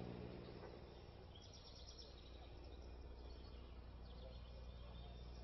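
Near silence in a pause between words: a faint steady low hum, with faint bird chirps from about a second and a half in.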